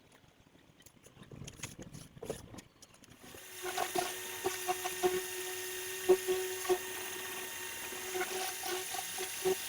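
A pressure washer starts about three seconds in and runs steadily: a hiss of spray over a steady pump hum, with a few clicks before it starts.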